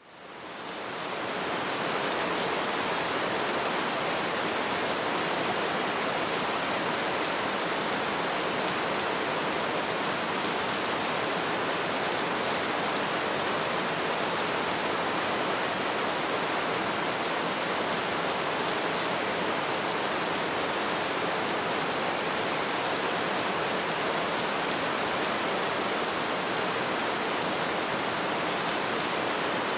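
Steady, even rain falling, with no thunder or distinct drop hits standing out; it fades in over the first couple of seconds.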